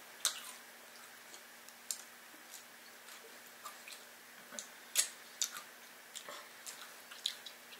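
Mouth sounds of people chewing pizza: irregular soft clicks and smacks, the sharpest about five seconds in.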